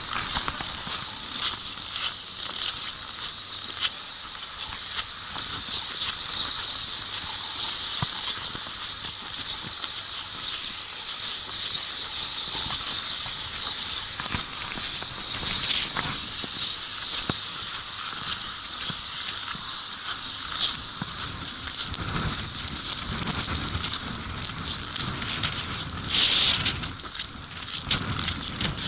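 Blizzard: wind-driven snow hissing steadily, with many faint ticks. A lower rumble joins it for several seconds near the end.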